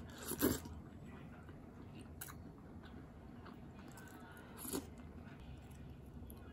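Someone chewing and biting food close to the microphone, likely soft braised radish from a cutlassfish stew, with a short louder sound about half a second in and another just before five seconds.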